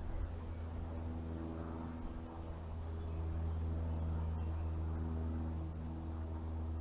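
A steady low hum from a running motor, holding one pitch, a little louder from about three seconds in.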